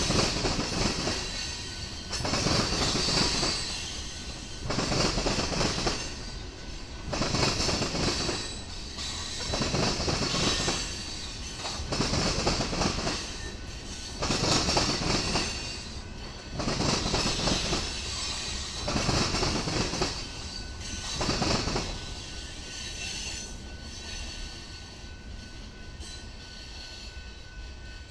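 Freight train of tank cars rolling past, its wheels clattering and screeching in loud pulses about every two seconds. Near the end the sound dies down as the last cars pass.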